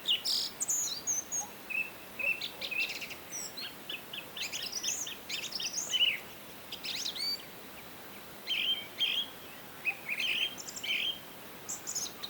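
Birds chirping and singing: many short high chirps and quick sweeping whistles in irregular bursts, over a faint steady hiss.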